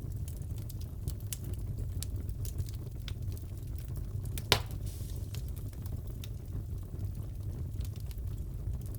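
Wood fire crackling in a fireplace: a steady low rumble of burning with scattered small snaps and one sharp, louder pop about halfway through.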